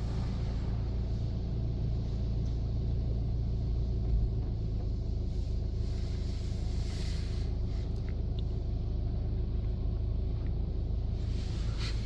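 Steady low rumble heard inside a car's cabin as the car is carried through a touch-free car-wash tunnel, with faint hiss swelling up about seven seconds in and again near the end.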